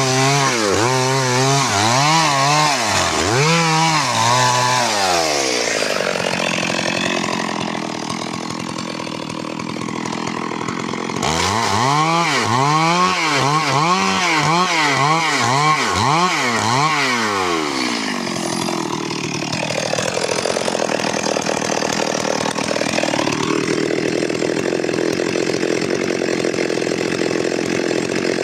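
Stihl MS 382 two-stroke chainsaw revved up and down in quick repeated blips, then held at high revs with the pitch sagging and recovering. The blips-then-hold pattern happens twice.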